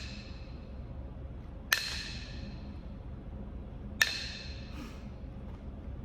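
Flintknapping blows on Kentucky hornstone (chert): two sharp strikes about two seconds apart, each with a short ringing tail as flakes come off.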